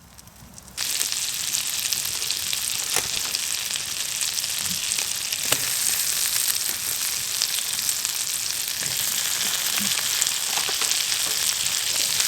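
A knob of garlic butter sizzling in a hot frying pan, starting suddenly about a second in as the butter lands and then hissing steadily with small pops.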